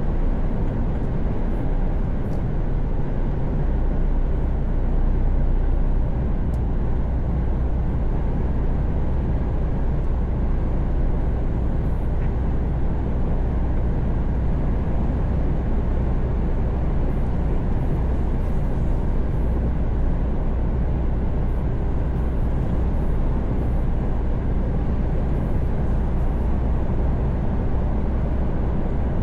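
Mercedes-Benz Actros truck cruising at steady speed on a motorway, heard from the cab: a constant low engine drone over steady road and tyre noise.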